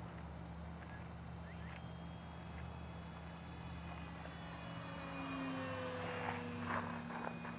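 Electric motor and propeller of an E-flite Hurricane 25 radio-control plane in flight, a faint whine that grows louder and drops slightly in pitch as it passes, from about five seconds in.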